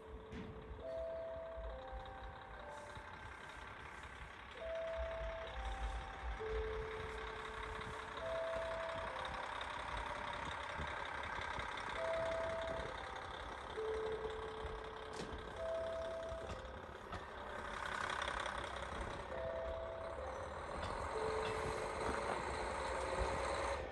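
A short electronic chime of three or four steady notes, repeating about every four seconds, over the running of a KiHa 40 diesel railcar. The railcar noise swells about two-thirds of the way in and again near the end.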